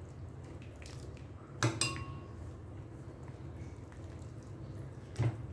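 Kitchenware clinking: a quick double clink about a second and a half in that rings briefly, and another clink near the end, over a steady low hum.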